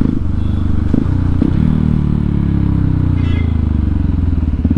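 Hero Xpulse 200 single-cylinder engine breathing through a full-system aftermarket exhaust with the dB killer removed, running loud. Two light clicks come about a second in. The engine note then falls as the bike slows, settling into a pulsing idle near the end.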